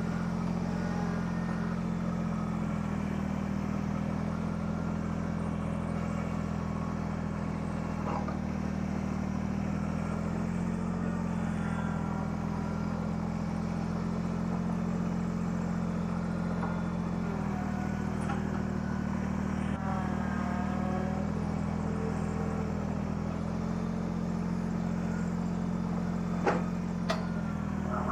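Kubota subcompact tractor's diesel engine running steadily at a constant speed. Two sharp knocks come close together near the end.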